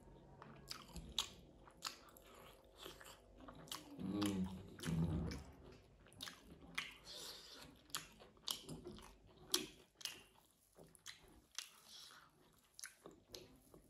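A person chewing a mouthful of rice and curry, with wet lip-smacking and irregular mouth clicks, and a brief low mouth sound about four seconds in.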